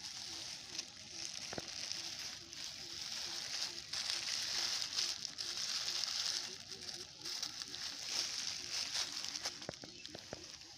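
Old plastic sheeting crinkling and crackling as it is handled and crumpled, in uneven rustles with many small clicks, loudest in the middle.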